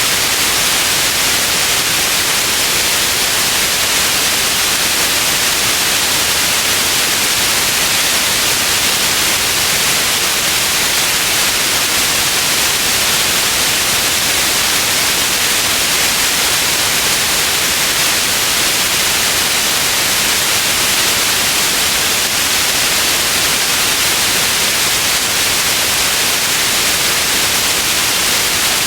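Steady white noise: an unchanging hiss, strongest in the upper range, with no other sound.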